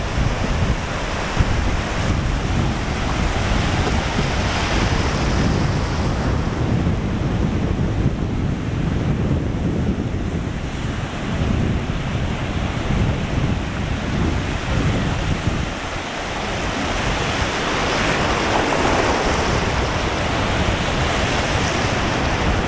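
Atlantic surf washing in and out on the beach, with heavy wind buffeting on the microphone. The wash of the waves swells twice, about four seconds in and again near the end.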